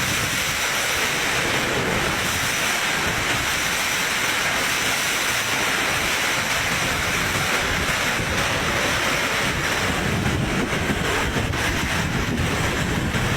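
Typhoon winds blowing hard, a steady rushing noise with no letup, with wind buffeting the microphone.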